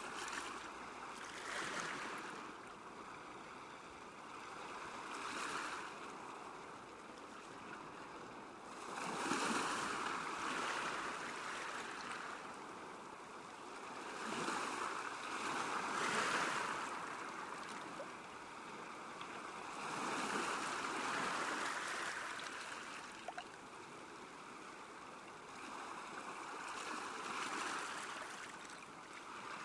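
Small waves washing against a lakeshore, the water noise swelling and ebbing every few seconds between quieter lulls.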